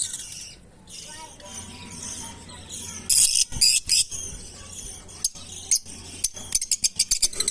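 Fischer's lovebirds chirping: a cluster of sharp, high chirps about three seconds in, then a quickening run of rapid chirps near the end.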